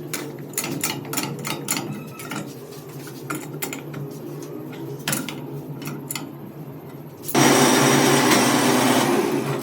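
Metal hand tools clicking and knocking against the truck's engine parts during diesel pump fitting, over a steady low hum. About seven seconds in, a loud rushing noise starts and lasts about two seconds.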